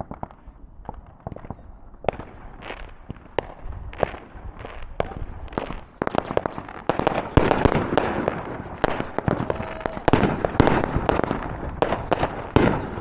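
Consumer fireworks going off in a finale: rapid bangs and crackling that come thicker and louder about halfway through, becoming a near-continuous barrage.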